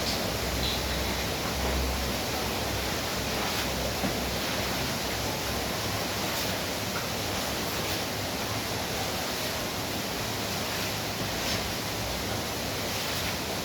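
Steady rain falling, a dense even hiss with a few faint drop ticks scattered through it.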